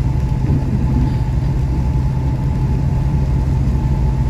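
Steady low drone of a car's engine and road noise heard from inside the moving car's cabin, with a faint steady whine above it.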